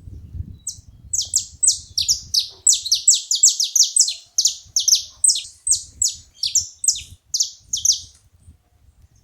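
Saffron finch calling: a fast series of sharp, high, downward-sweeping chips, about three a second, which stops about a second before the end.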